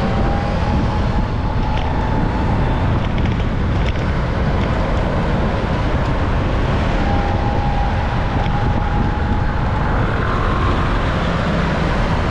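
Steady, loud wind rumble on the microphone while riding along a road, with traffic noise and a faint wavering whine from a passing vehicle.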